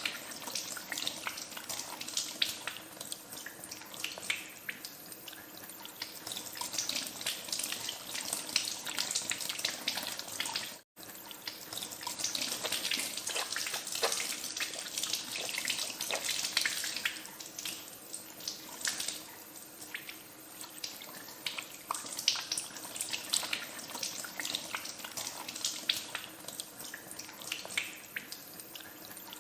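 Tap water running into a sink and splashing over hands being washed, with one momentary break about eleven seconds in.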